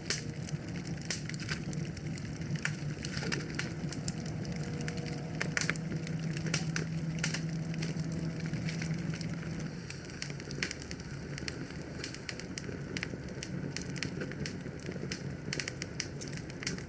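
Wood fire burning in a fireplace, crackling and popping at irregular times over a low, steady rumble of the flames; the rumble eases about ten seconds in.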